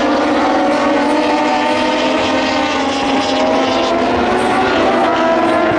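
Several Moto2 race bikes with Triumph 765 cc three-cylinder engines running hard at high revs, their overlapping engine notes slowly rising and falling as they go past.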